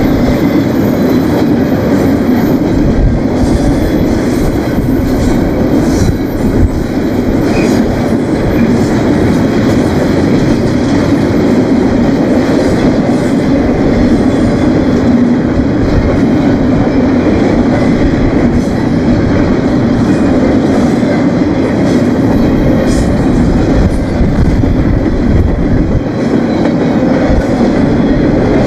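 Union Pacific intermodal freight train rolling past close by: a steady, loud rumble of steel wheels on rail with a clacking of wheels over the track.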